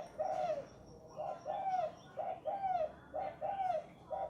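Spotted dove cooing: a run of repeated phrases, each a short note followed by a longer arched coo, about one phrase a second. Faint higher chirps sound in the background.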